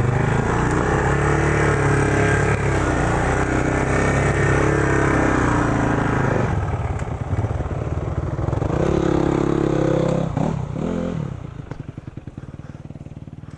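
Single-cylinder off-road engine revving hard and unevenly, with the revs rising and falling, as in mud. After a short dip it revs again, then slows to a low putter that gets quieter near the end.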